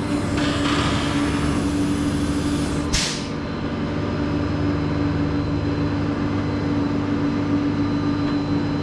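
Rollback tow truck's engine running steadily with a constant hum, and one short burst of hiss about three seconds in.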